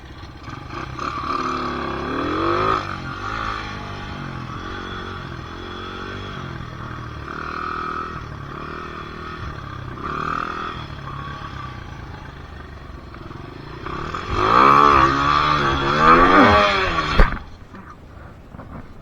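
Dirt bike engine revved over and over, its pitch rising and falling with each blip of the throttle. Near the end it is revved harder and louder, then cuts off suddenly with a sharp thump.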